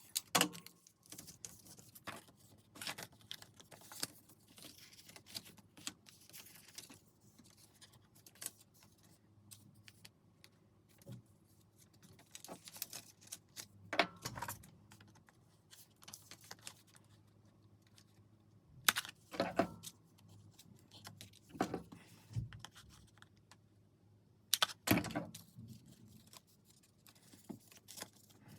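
Scattered taps, clicks and short paper rustles from journal-making materials being handled on a work surface, with a few louder knocks about halfway through and near the end.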